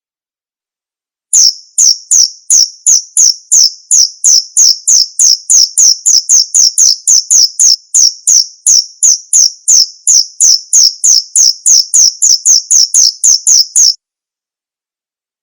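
Male cricket calling: a steady train of high, sharp chirps, about three a second, each dropping slightly in pitch. It starts about a second in and cuts off abruptly near the end.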